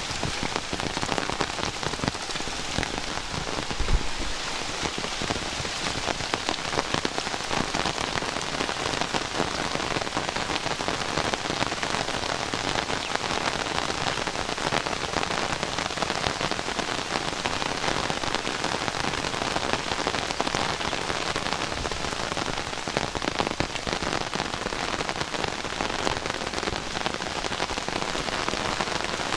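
Heavy rain falling steadily, a dense even hiss of drops, with a single low thump about four seconds in.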